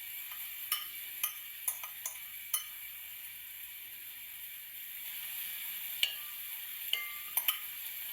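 Onions and spices sizzling in the base of a tagine, with a utensil clicking against the dish as they are stirred: a run of taps in the first few seconds and a few more near the end.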